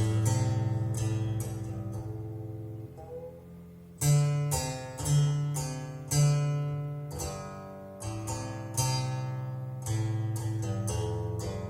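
Plucked Chinese zither music: single notes and short runs with sharp attacks that ring on and fade. The playing thins out about three seconds in, then comes back with strong low plucked notes.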